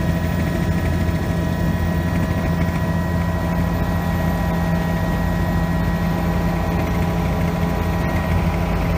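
Helicopter in flight, heard from inside the cabin: a steady engine and rotor drone with constant high whining tones over it.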